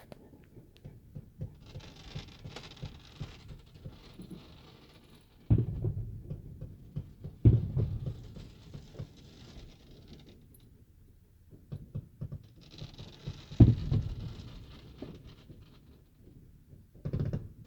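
Fireworks going off: three aerial shells bursting with low booms that die away, about five and a half, seven and a half and thirteen and a half seconds in, with stretches of dense crackling from crackle-effect shells.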